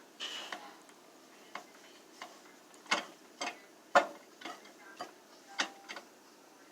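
A series of short, irregular clicks and knocks, the loudest about four seconds in.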